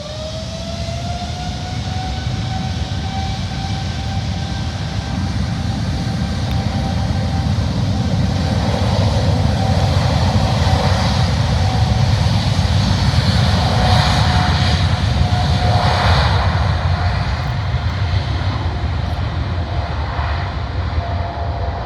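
A Boeing 747-8's four GEnx jet engines running at takeoff thrust. A loud, deep rumble sits under a steady high whine that climbs slightly in pitch at the start. The sound swells to its loudest about two-thirds of the way through, then eases a little.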